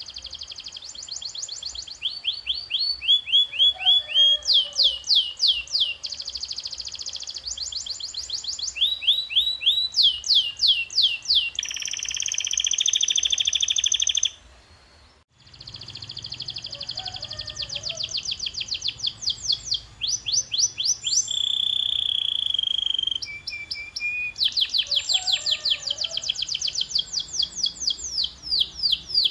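Domestic canary singing a long song made of phrases of rapidly repeated chirping notes, one phrase running straight into the next, including buzzy trills. The song breaks off briefly about halfway, then resumes.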